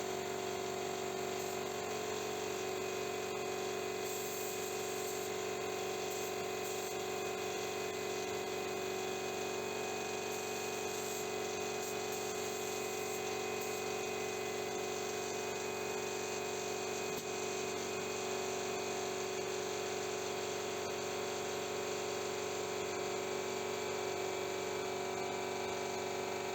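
An electric motor runs steadily with a constant whine over a hiss, unchanging throughout.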